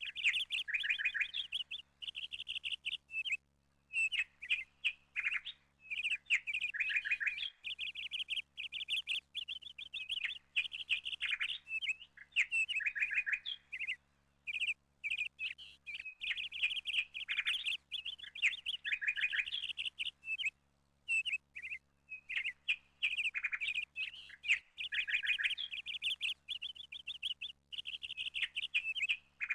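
A small songbird chirping in fast, dense runs, broken by short falling trills. The song cuts off and restarts abruptly several times.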